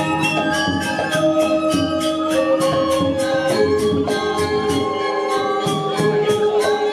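Balinese gamelan music: a fast, even pulse of cymbal strokes over held melodic tones that step from pitch to pitch.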